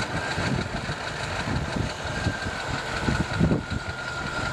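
A vehicle engine idling with a steady, uneven low rumble and a faint steady whine above it.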